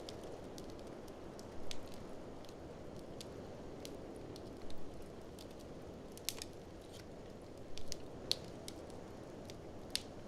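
Fire in a fireplace crackling, with irregular sharp pops over a steady low rushing noise.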